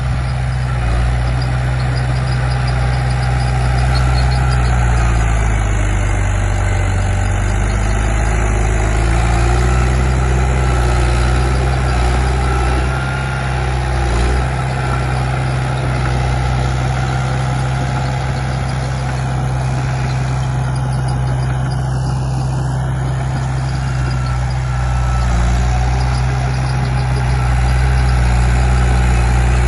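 Komatsu D31P bulldozer's diesel engine running steadily. Its pitch sags for a few seconds in the first third, as if under load, then recovers.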